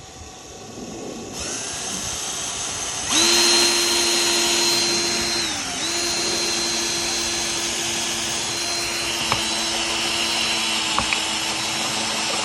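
Electric drill drilling a hole into a 2021 Tesla. The motor builds up over the first few seconds to a steady whine, dips in pitch briefly about halfway through and recovers, then runs on steadily, with a couple of sharp clicks near the end.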